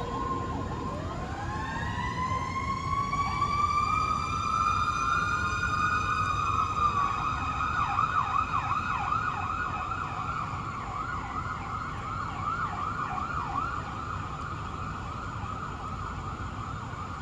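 Emergency sirens on a responding fire engine and ambulance. One siren winds slowly up in pitch over several seconds and holds high. About seven seconds in, a fast warbling yelp joins it, over the rumble of the vehicles.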